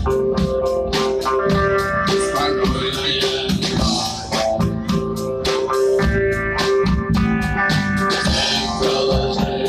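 Rock band playing an instrumental passage between sung lines of a cover song: guitar carrying a held melodic line over a steady drum beat, with no vocals.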